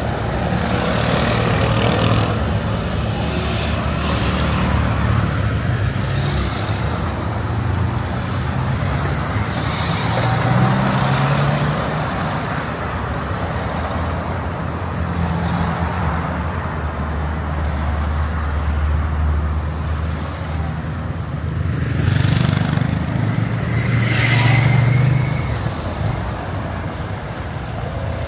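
Road traffic at a busy street junction: car and truck engines running and vehicles passing, swelling and fading, with a short high squeal near the end.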